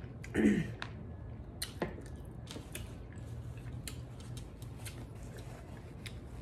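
Close-up eating sounds of a mouthful of spicy sauce-dipped snow crab meat: wet chewing with many small mouth clicks and smacks. A short falling vocal 'mm' comes about half a second in.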